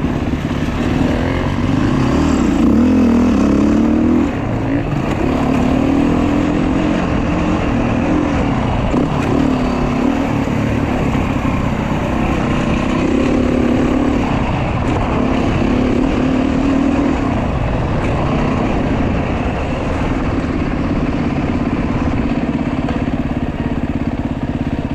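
Off-road motorcycle engine running hard on a dirt track, its pitch rising and falling again and again as the throttle is opened and closed.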